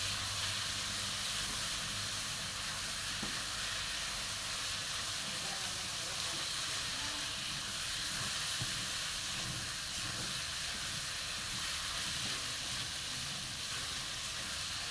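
Sliced jengkol beans and pea eggplants sizzling steadily in hot oil in a wok as they are stirred with a spatula.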